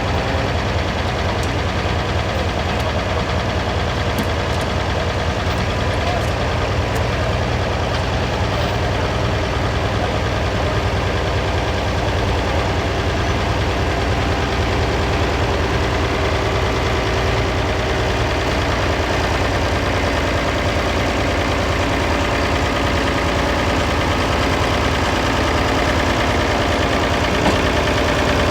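Large six-cylinder diesel tractor engine running steadily at low speed, with an even low pulse.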